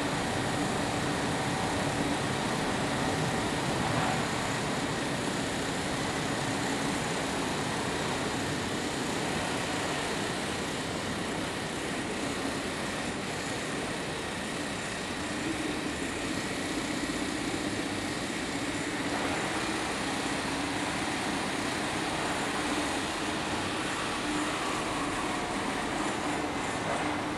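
Steady rumble and hiss of a freight train of round-tanked bulk powder wagons rolling slowly past, heard from inside a train carriage.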